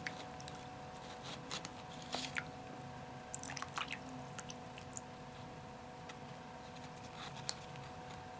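Faint, irregular wet squishes, drips and light plastic clicks as a damp humidifier wick filter is pulled up out of its tower housing and handled.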